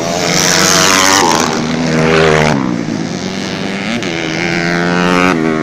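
Several racing dirt bike engines running hard together, revving up and down as the bikes pass, their pitches overlapping; one engine note drops sharply about a second in and again at about two and a half seconds.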